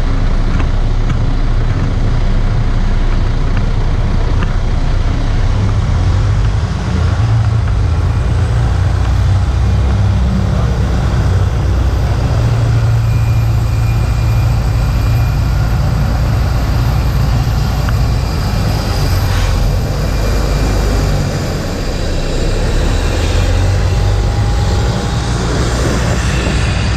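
Airport apron shuttle bus running and rolling, heard from inside the cabin as a steady low engine and road rumble.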